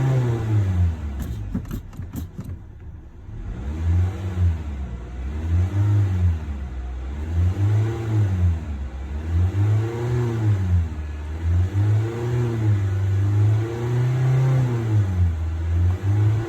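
2020 Honda Civic engine revved over and over through its exhaust, each rev rising and falling about every two seconds. A few clicks about a second in, then a short lull before the revving resumes.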